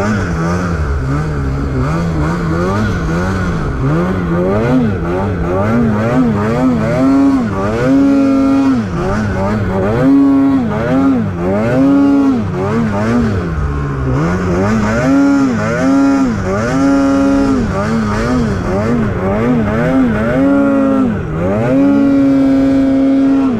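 Snowmobile engine revving up and down over and over as the throttle is worked, ending on a held high rev near the end.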